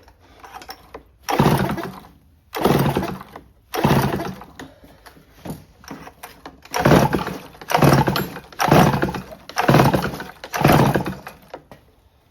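Homelite C5 two-stroke chainsaw being pull-started on choke with the throttle open: eight pulls of the recoil starter cord, three, then five more after a short pause, each turning the engine over without it catching.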